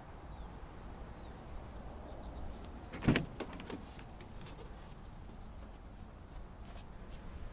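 Pickup truck's hood being shut: one loud thump about three seconds in, followed by a few light clicks, over a low steady background rumble.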